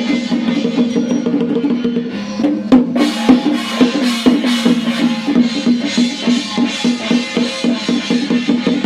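Chinese temple percussion music: rapid drum and wood-block strokes over a steady pitched tone, with cymbals joining in with a crash about three seconds in.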